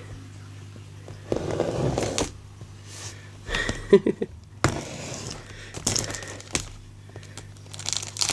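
A cardboard box being handled and its tape scraped open with a back scratcher: irregular scrapes and rustles, with a sharp click about four seconds in.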